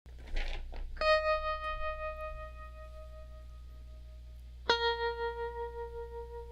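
Instrumental music: two single guitar notes with effects, each ringing on for several seconds. The first comes about a second in, after a short noisy swell; the second, lower, comes near the end.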